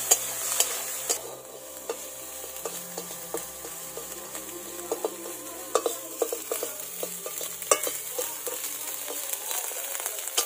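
Shelled periwinkle meat frying in oil in a metal wok, sizzling steadily, while a metal spatula stirs and scrapes the pan with irregular sharp clicks and taps.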